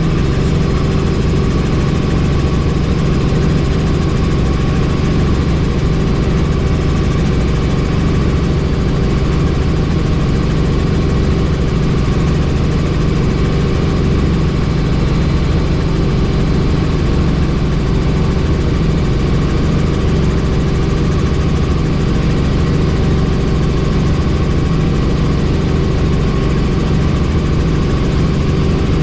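Helicopter in steady flight heard from the open cabin: an unbroken drone of rotor and engine with steady tones over a rushing noise.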